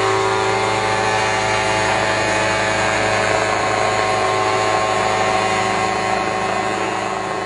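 Spraying drone's electric motors and propellers running steadily, a buzz made of many fixed tones.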